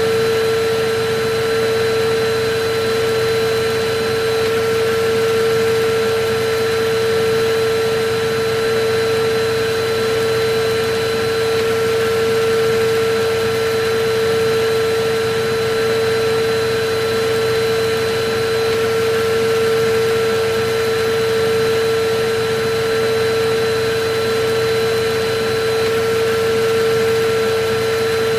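Electric vacuum cleaner running steadily: rushing air noise with a constant whining hum that does not change.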